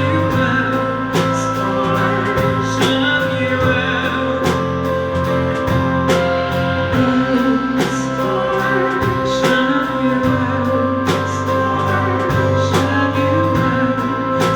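Live band music: guitar over held chords with a steady drum beat, and a voice faintly in the mix.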